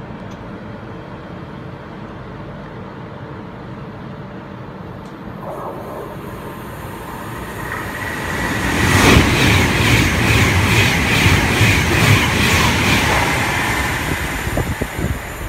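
Virgin Trains class 390 Pendolino electric express passing through the station at speed without stopping. The rush builds from about six seconds in, peaks with a rapid, even clatter of wheels, then fades away near the end.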